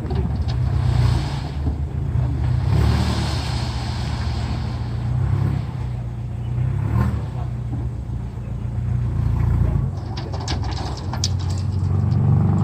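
Truck engine running, a steady low drone, with a few sharp clicks and rattles about ten seconds in.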